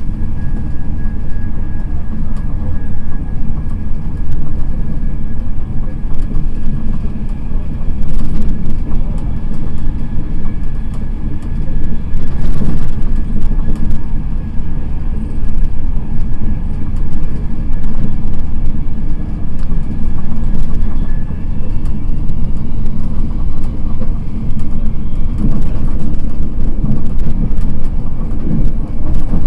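Passenger coach of an express train running at speed, heard from inside: a loud, steady rumble of wheels on rails, with a faint steady whine that fades out about two-thirds of the way through. The noise rises briefly about twelve seconds in.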